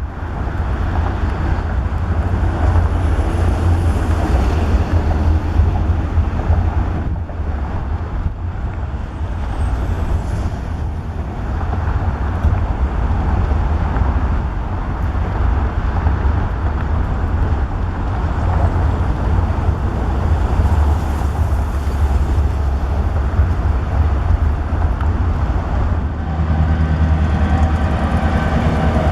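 Freight train's diesel locomotive running with a steady heavy rumble. About three seconds before the end, a steady pitched engine note joins in.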